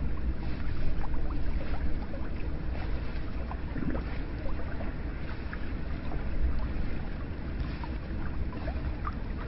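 Hot spring water running steadily into a bath, with many small plinks and splashes over a continuous low wash.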